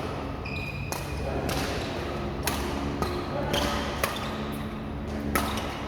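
Badminton rally: rackets sharply striking a shuttlecock back and forth, a hit roughly every second or so, with short squeaks of shoes on the court between the shots.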